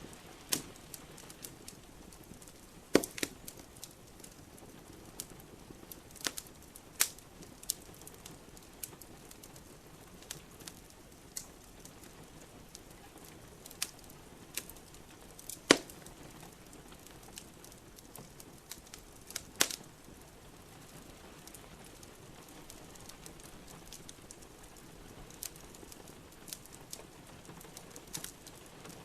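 Wood fire in a fireplace crackling, with irregular sharp pops and a few louder snaps scattered through, over a faint steady hiss of rain.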